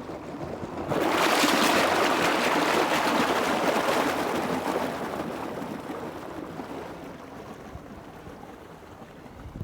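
Rushing water: a loud surge comes in suddenly about a second in, holds for a few seconds, then slowly dies away to a low wash.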